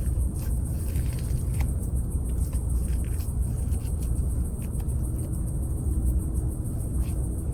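Campfire burning, with scattered sharp crackles and pops from the wood over a steady low rumble.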